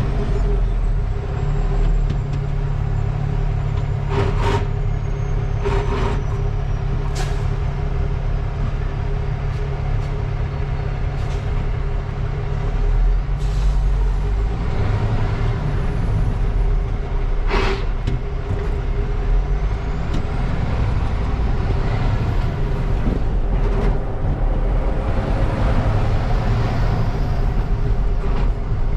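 Tractor-trailer's diesel engine running steadily, heard from inside the cab, with a few short sharp hisses of air typical of air brakes, the loudest about 17 seconds in.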